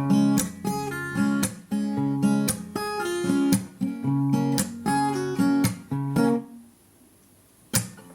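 Acoustic guitar strumming chords in a steady rhythm. The strumming stops about six and a half seconds in, leaving a gap of about a second, then comes back in just before the end.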